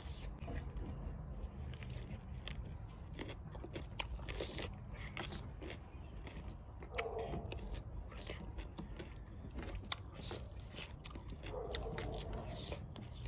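Close-up eating sounds: a person chewing and biting food with many short wet clicks and smacks, as rice and curry are eaten by hand from a metal plate. A steady low hum runs underneath.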